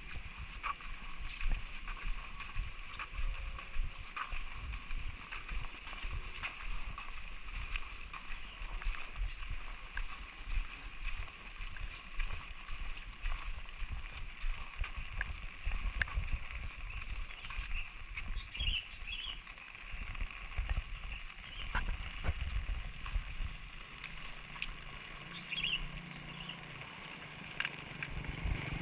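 Light drizzle falling steadily while someone walks, with soft irregular thumps from the footsteps and a few faint clicks. A few short high chirps come up about two-thirds of the way in and again near the end.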